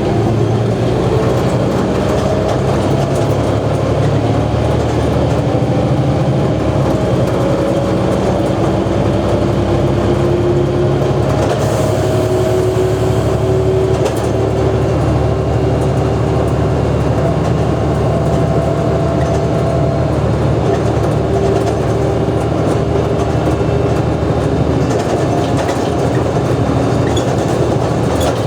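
Mercedes-Benz O345G articulated bus's diesel engine and drivetrain running under way: a loud, steady low rumble with whining tones that rise slowly, drop back and rise again as the bus gathers speed.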